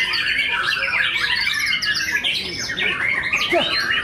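Caged songbirds, white-rumped shamas (murai batu), singing at once in a dense, continuous chorus of quick overlapping chirps and trills.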